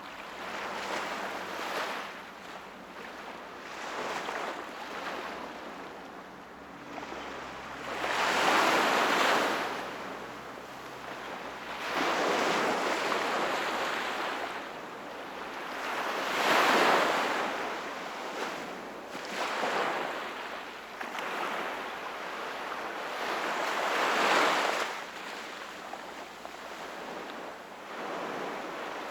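Sea waves breaking and washing on the shore, one surge every few seconds, each rising and falling away; the strongest come about a third of the way through and just past halfway.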